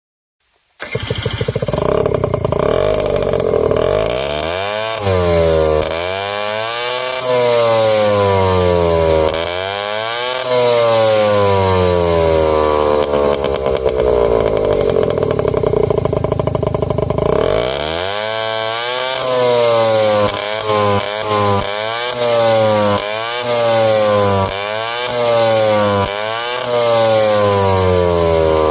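Honda Super Dio ZX AF28 scooter's two-stroke single-cylinder engine through a SEASTYLE shotgun aftermarket muffler, revved up and let fall back several times with a steady idle in between. Over the last third it gets a quick run of short throttle blips.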